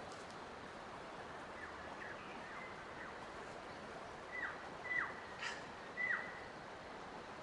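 A bird calling with short whistled notes that each slide down in pitch, faint at first and then three louder ones in the second half, over a steady rushing background of running water or wind in the trees.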